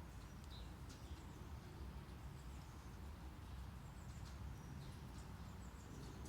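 Steady low brown noise, with faint short high chirps now and then over it.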